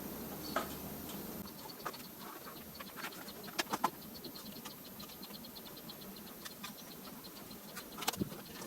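Scattered light clicks and knocks of metal parts and bolts being handled during moped front-end reassembly, a few sharper ones about 3.5 s in and near the end. Under them runs a faint, fast, even ticking.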